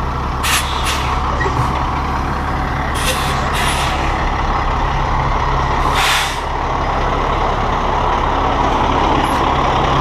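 Tri-axle dump truck's diesel engine running steadily, with short hisses of compressed air about half a second, one second and three seconds in, and a longer, louder hiss about six seconds in.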